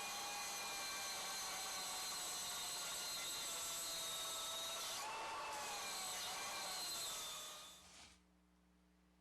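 Handheld power tool motor running under load, its pitch slowly sagging, jumping back up about five seconds in, then winding down and stopping about eight seconds in.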